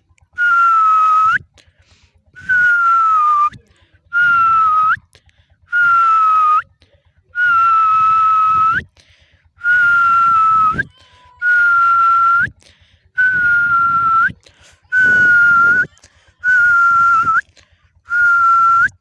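A puppy whining in eleven evenly spaced high cries, each about a second long, holding a near-steady pitch and flicking up sharply at the end: it is begging for attention.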